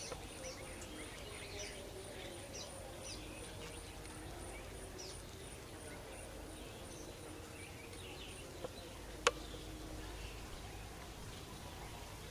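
Bees buzzing steadily around a swarm-trap hive, with scattered bird chirps and one sharp click about nine seconds in.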